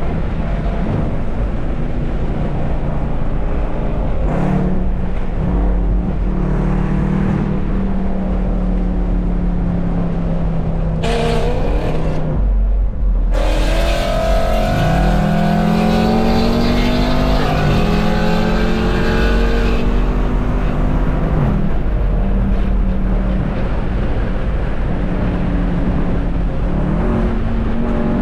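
Car engine pulling hard, its pitch climbing and then dropping several times as it works up through the gears.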